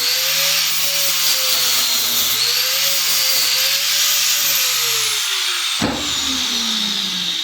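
Angle grinder with a flap disc grinding paint off a metal bracket, its motor pitch dipping and recovering as the disc bites. It is switched off about five seconds in and winds down, with a single knock during the spin-down.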